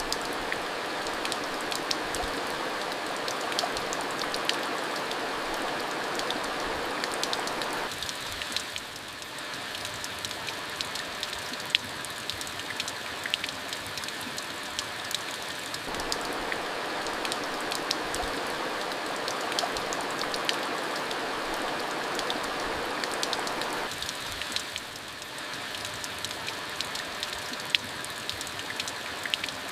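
Steady monsoon rain, its hiss dotted with sharp ticks of individual drops hitting a hard surface. The hiss softens at about eight seconds, swells back about halfway through, and softens again near the end.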